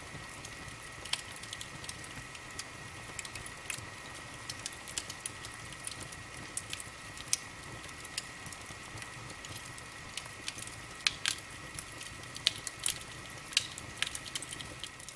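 Wood fire crackling in a fireplace: irregular sharp pops and snaps over a steady hiss, with a faint steady high-pitched tone underneath.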